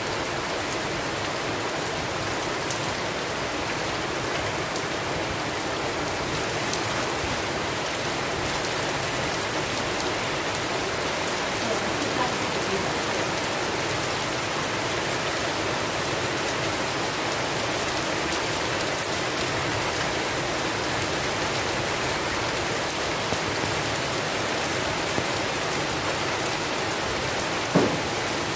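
Steady rainfall, a dense even hiss with many small drops ticking through it and one louder sharp tick near the end.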